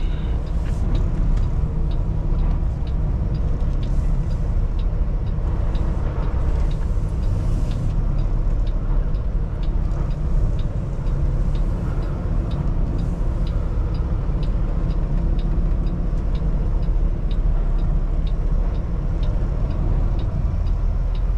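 Kenworth T680 semi truck's diesel engine running steadily at low speed as the truck creeps forward. A light, regular ticking sounds over the engine.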